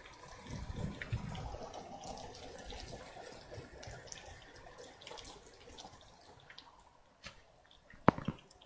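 Rain falling and dripping, a haze of patter with scattered drops, fading away toward the end. One sharp click sounds near the end.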